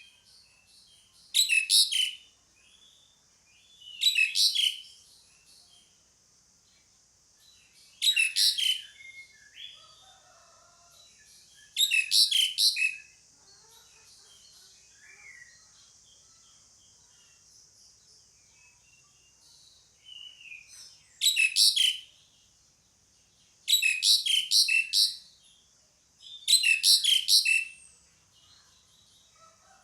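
Asian pied starling (jalak suren) calling in seven bursts of rapid high notes, each about a second long, with gaps of a few seconds between them.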